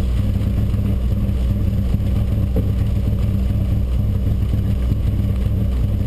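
Mitsubishi Lancer Evolution IX's turbocharged 2.0-litre four-cylinder engine idling steadily, heard from inside the stripped rally-car cabin.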